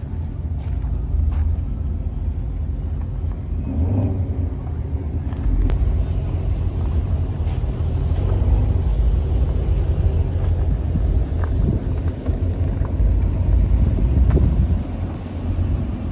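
Car engines running with a deep, low rumble that grows louder about five seconds in.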